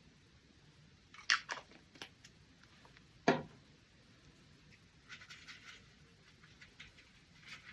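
A few sharp clicks and taps from a paint dropper bottle and palette being handled while a drop of watercolour is added, the loudest just over three seconds in. A soft scratchy rustle follows about five seconds in.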